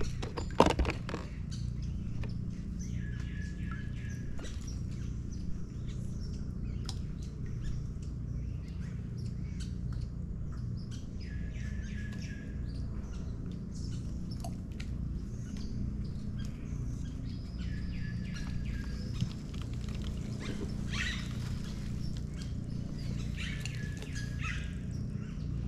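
Birds calling over and over, short calls every few seconds, over a steady low rumble, with a sharp knock about half a second in.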